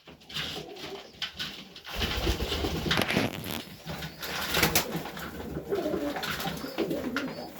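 Domestic highflyer pigeons cooing in a loft, with a few knocks and rustles among them.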